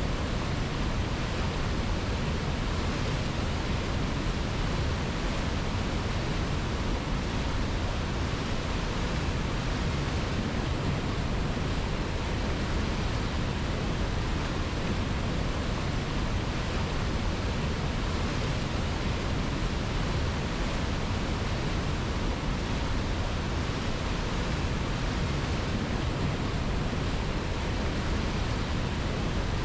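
River water rushing in a steady, unchanging flow.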